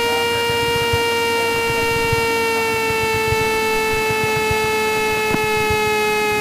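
Cessna 172 stall warning horn sounding one continuous reed tone over the engine and wind noise in the cabin, its pitch sinking slightly; the airplane is near the stall.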